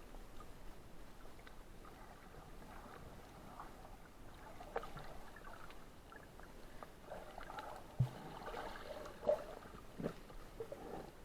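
Water sloshing and gurgling, with many small scattered clicks and a few sharper knocks, the loudest about eight seconds in.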